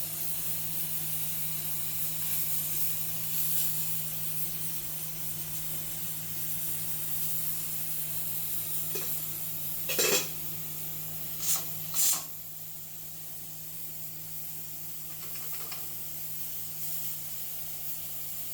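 Hawkins pressure cooker hissing steadily as steam escapes, the steam leak the repair is meant to cure, over a steady low hum. There are three short louder spurts of hiss near the middle.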